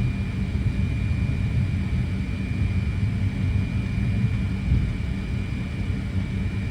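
Steady low rumble of a Fokker 100 cockpit with its rear-mounted Rolls-Royce Tay turbofans running at idle, under a steady high whine.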